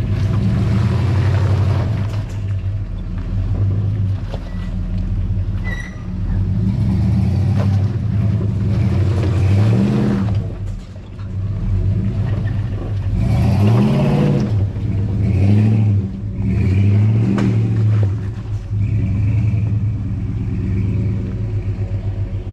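A 2003 Chevy Suburban being driven over a rough trail, its engine running with the note rising and falling back several times as it speeds up and eases off.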